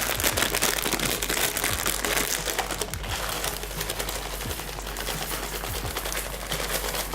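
Dry wood smoking chips poured into a baking tray: a dense rattling and rustling of many small pieces, strongest over the first few seconds and then lighter.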